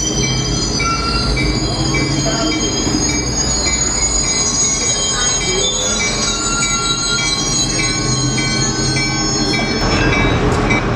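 Train wheels squealing against the rails as railroad cars roll slowly past: several high-pitched squeals that come and go over a steady low rumble.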